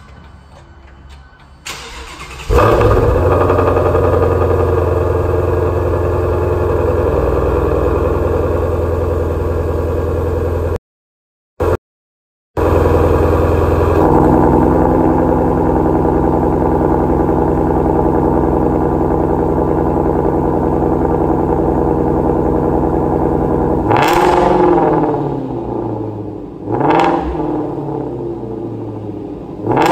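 2017 Ford Mustang Shelby GT350's 5.2-litre flat-plane-crank V8 starting about two and a half seconds in, then running at a raised idle through its valved quad exhaust and settling a little lower about fourteen seconds in. Near the end the throttle is blipped three times, each rev rising and dropping back. The sound cuts out completely for about a second and a half around eleven seconds in.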